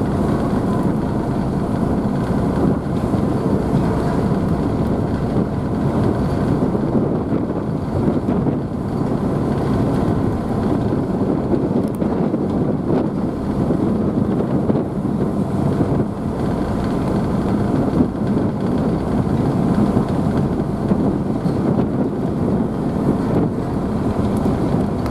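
Ferry's engines running steadily under way, with the rush of the churning wake and wind buffeting the microphone.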